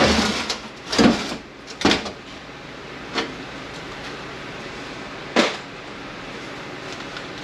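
A few separate knocks and clunks, about five over several seconds, the loudest about a second in, as parts and tools are handled during the teardown of an 8L90 automatic transmission.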